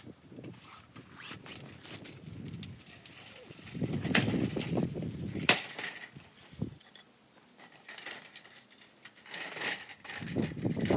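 Knocks, clicks and rustling from handling camping gear while a fire pit is set up, with one sharp clack about five and a half seconds in.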